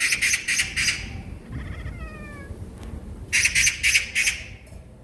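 Domestic cat chattering at a magpie: two bursts of harsh, rapid clicking chatter, about a second each and some three seconds apart, with a short falling mew between them.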